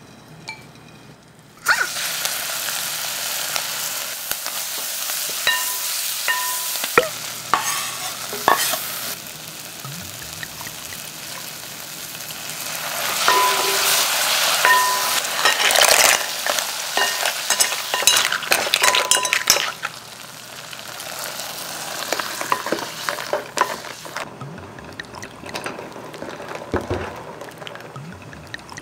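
Seaweed sizzling as it drops into hot perilla oil in a pot, then stir-fried with a wooden spoon that scrapes and squeaks against the pot. Near the end the sizzle drops away to a quieter simmer as liquid goes in.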